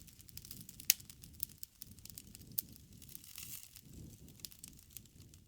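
Campfire crackling: irregular sharp pops and snaps of burning wood over a faint low rumble of the flames.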